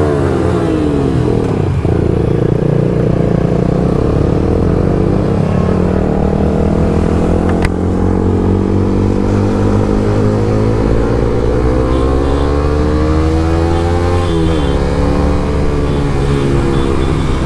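Motorcycles with aftermarket exhausts running on the move. Their engine note rises and falls with the throttle, and more than one bike is heard at once. A single sharp click comes about halfway through.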